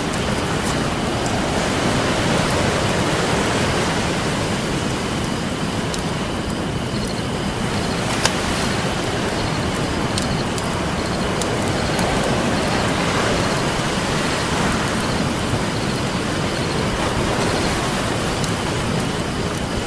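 Ocean surf washing steadily in slow swells, with a wood campfire crackling over it in scattered sharp pops, one louder pop about eight seconds in.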